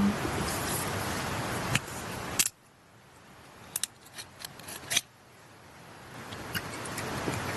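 Steady rush of a mountain stream that cuts off abruptly about two and a half seconds in. In the quiet that follows come several small sharp clicks, the last and loudest about five seconds in, before the water noise slowly swells back.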